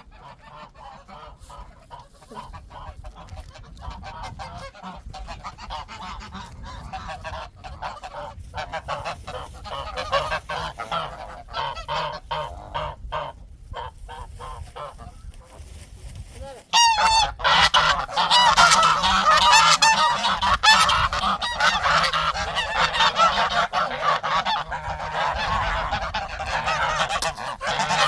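A flock of farm geese honking, many short calls overlapping. The honking turns suddenly much louder and denser about two-thirds of the way through.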